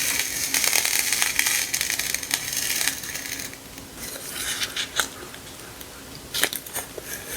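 Crinkling and rustling of sticker sheets and their wrapping being handled. It is dense for the first three seconds or so, then quieter, with a few sharp taps and clicks.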